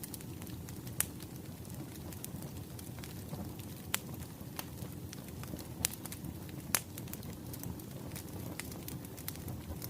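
Wood fire crackling, with a steady low rumble and sharp pops of the burning logs every second or two.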